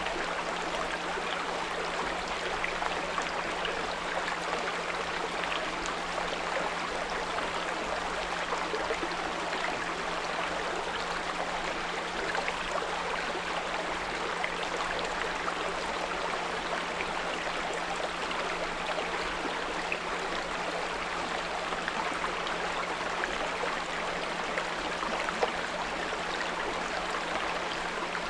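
Small brook flowing and burbling steadily, with a continuous low 174 Hz pure tone held underneath it.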